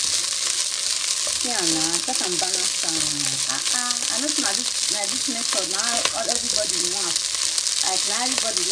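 Rice and vegetables frying in a hot non-stick pan, stirred with a wooden spatula: a steady sizzling hiss.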